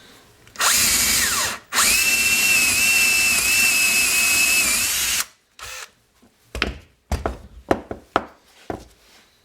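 Electric drill boring a test clearance hole in a block: a short run of about a second that winds down, then a steady run of about three and a half seconds with a high whine that cuts off suddenly. Several sharp clicks and knocks follow near the end.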